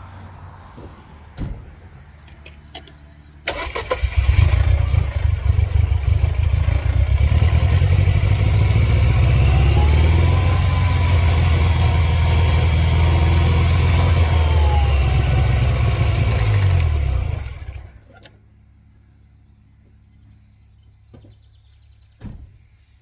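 1999 Mercedes-Benz C230 Kompressor's supercharged 2.3-litre four-cylinder engine cranking and catching a few seconds in, then held at about 2,500 rpm with a whine that rises and falls, before stalling out about 17 seconds in. The stall comes with a flashing check engine light: the engine has serious running trouble and will not keep running.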